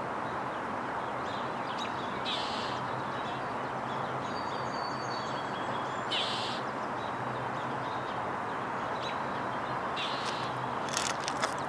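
Short, harsh rasping bird calls, about four of them a few seconds apart, with a faint thin high-pitched birdsong phrase in between, over a steady background hum of city noise.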